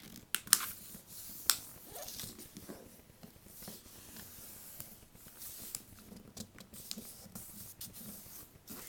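A sheet of paper being folded and creased by hand: crisp crackles and rustles, the sharpest few in the first second and a half, then fainter scattered rustling.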